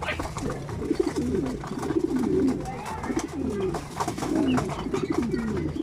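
Racing pigeons cooing: several low coos overlap, each dipping in pitch, one after another, with scattered light clicks between them.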